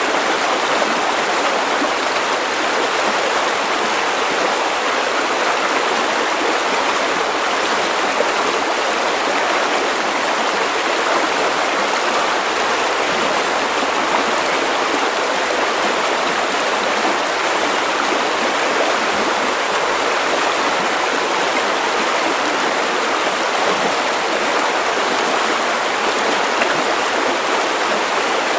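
River water running steadily over stones: a continuous, even rushing and burbling with no change in level.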